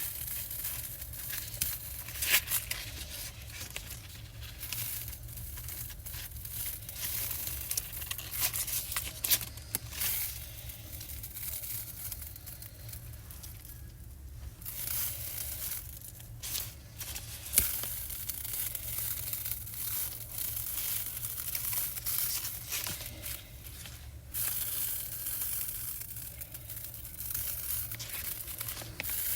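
Sticker sheets and paper being handled and peeled, making continuous crinkling and tearing rustles with frequent sharp clicks and snaps, the loudest about two, nine and seventeen seconds in.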